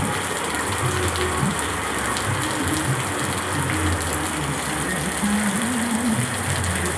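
Heavy rain pouring steadily, a dense, even rush of water.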